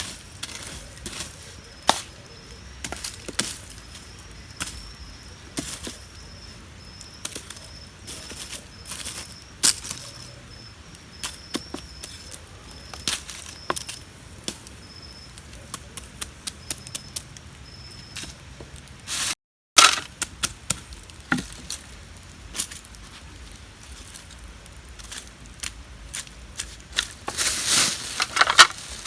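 Irregular series of sharp chopping strikes, a blade hitting wood. There is a short break about two-thirds through.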